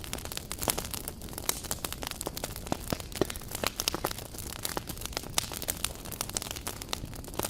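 Campfire burning, with dense irregular crackling and popping of wood over a steady low rush.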